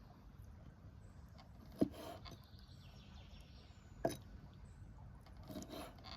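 Handling sounds of food being prepared by hand: two sharp knocks about two seconds apart, with softer rustles in between, over a low steady outdoor rumble.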